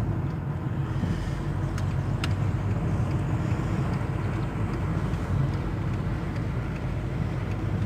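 Steady low rumble of a car driving, road and engine noise as heard inside the cabin, with a couple of faint clicks about two seconds in.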